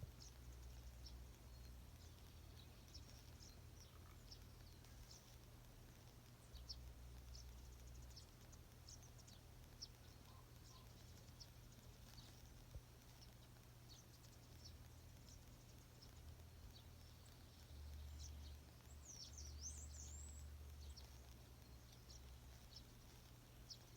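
Faint morning birdsong: many short, high chirps scattered throughout, and a longer twisting phrase about twenty seconds in, over a low steady rumble.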